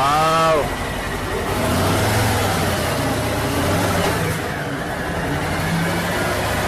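Harley-Davidson V-twin motorcycle engine running under a rider, its pitch stepping up and down and the sound growing louder about two seconds in.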